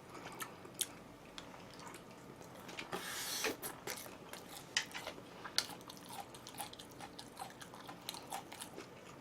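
A person chewing and crunching food, with many small irregular clicks and a brief noisier stretch about three seconds in.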